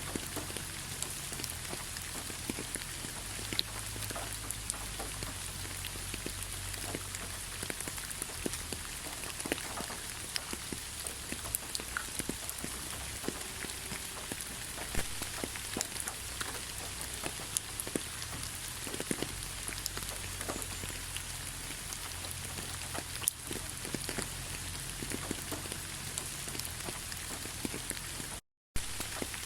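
Steady rain with many distinct drop hits scattered through it. It cuts out to silence for a split second near the end.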